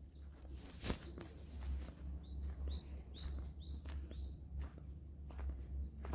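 Small birds singing: a run of short, high chirps that sweep downward, about one or two a second, over a steady low rumble, with a single sharp click about a second in.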